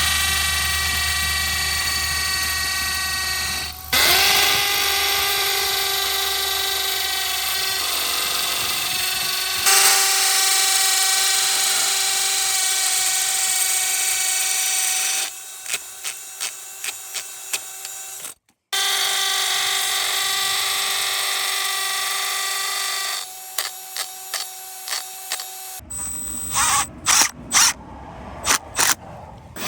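Power drill running in long steady runs, drilling holes in asphalt for Tapcon concrete screws, with short start-stop trigger pulses between runs. Near the end comes a rapid series of sharp clicks.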